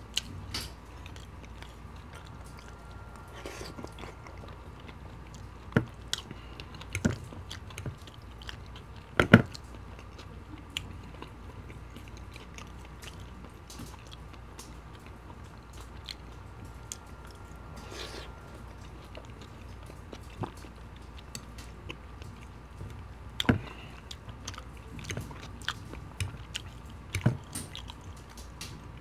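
A person chewing mouthfuls of poutine (fries, cheese curds and gravy), with scattered sharp mouth clicks; the loudest comes about nine seconds in and two more near the end.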